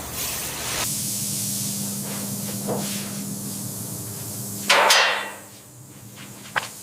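Steady hiss over a low hum, then a single loud bang about five seconds in that dies away in about half a second, and a faint click near the end.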